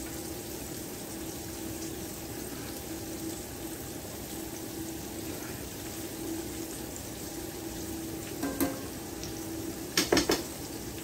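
Flour-coated summer squash pieces frying in oil in a cast-iron skillet, a steady sizzle and bubbling. Metal tongs click a few times near the end.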